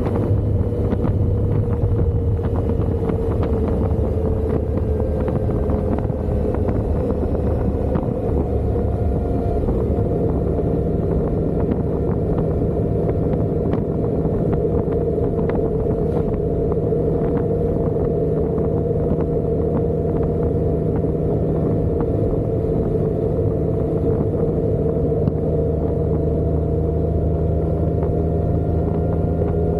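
Motorcycle riding at a steady speed: an even engine drone over a constant rush of wind and road noise.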